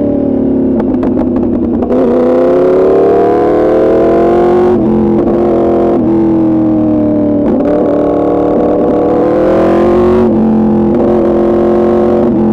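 2024 Yamaha R1's crossplane inline-four through an Arrow Pro Racing exhaust. The revs fall with crackling pops on the overrun for the first two seconds, then the engine pulls up through the revs. Quick upshifts about five and ten seconds in each drop the pitch sharply.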